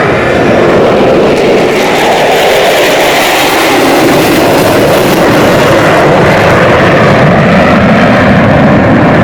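Jet engine noise, very loud and continuous, with its tone shifting slowly over several seconds.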